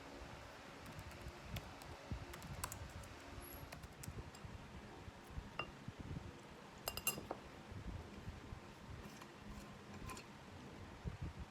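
Faint, scattered light clinks and taps of small hard objects, with a quick cluster of them about seven seconds in, over a low room rumble.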